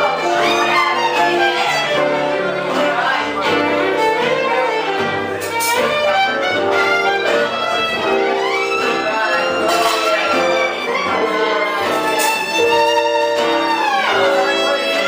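Live band music: a lead melody with sliding, gliding notes over repeated sustained chords, playing without a break.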